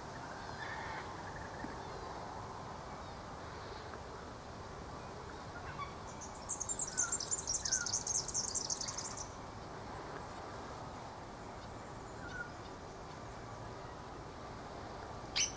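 Birdsong in a quiet outdoor background: a rapid, high-pitched trill lasts about three seconds near the middle, with a few soft chirps around it. Louder bird calls start right at the end.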